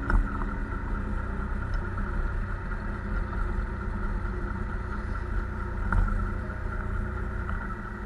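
Motorbike engine running while riding on a road, with steady low wind and road rumble, and two short knocks, just after the start and about six seconds in.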